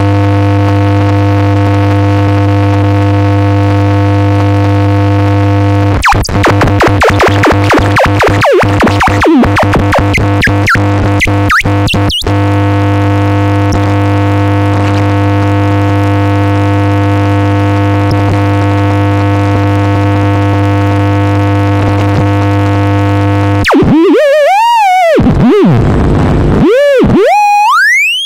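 Dark ambient noise electronica: a loud, steady electronic drone of many stacked tones. It breaks into rapid stuttering, glitchy cuts about six seconds in and returns about twelve seconds in. Near the end it gives way to deep swooping pitch glides.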